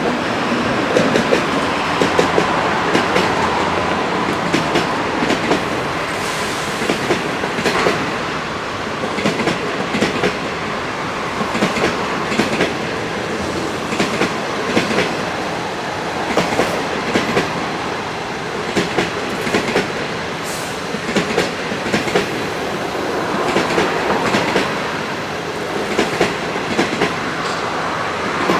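A train passing close by, its wheels clicking over the rail joints in regular groups about every two seconds over a steady rumble of wheels on rail.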